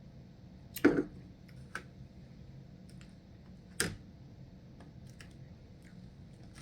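Close-up eating of crunchy nachos: two sharp crunching bites, about a second in and near four seconds, with fainter clicks of chewing between.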